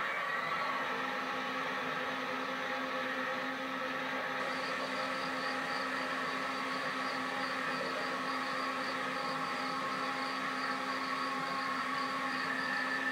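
Freight train diesel locomotives running: a steady hum with several held tones. About four seconds in, a faint high pulsing about three times a second joins it.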